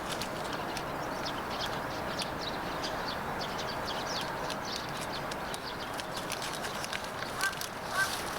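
Firewood burning in a wood stove: a steady hiss with frequent small crackles and pops.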